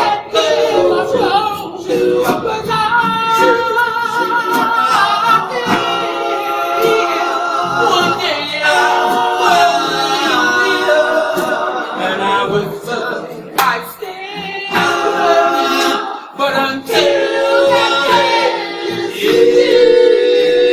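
A cappella soul vocal group of men singing in harmony without instruments, with no clear words, holding and bending long notes with vibrato over one another.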